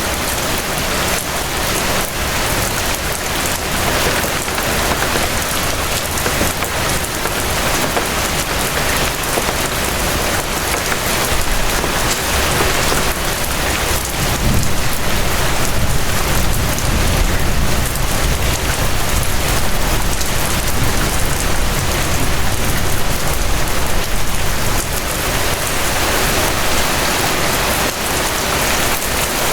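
Steady rain falling and pattering on surfaces, a dense even hiss. A deeper low rumble swells in about halfway through and fades near the end.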